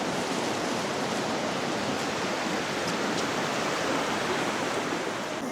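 Steady rushing of falling or running water, a mountain waterfall or stream, with no breaks.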